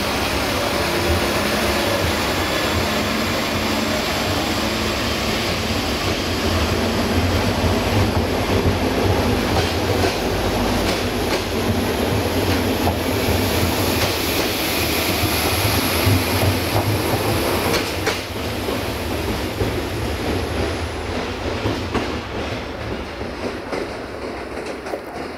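Siemens Desiro VT642 diesel multiple unit pulling out along the platform: low engine and running rumble with wheels clicking over rail joints, and a steady high-pitched squeal that fades away towards the end as the train draws off.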